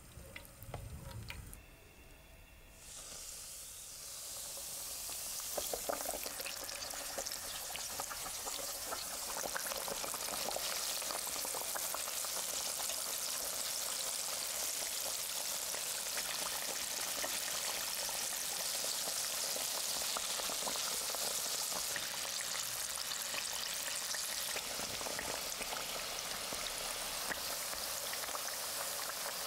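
Oil pouring into a pot, then a breaded chicken cutlet deep-frying in hot oil: a dense sizzle and crackle starts a few seconds in, grows louder over the next few seconds, and then holds steady.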